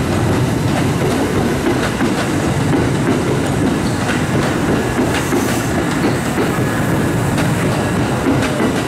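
Kintetsu electric train running over turnouts, its wheels clattering over the switches and crossings in a steady run of clicks and knocks.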